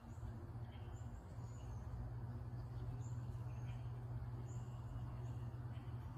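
Birds chirping faintly, short high chirps every second or so, over a steady low hum.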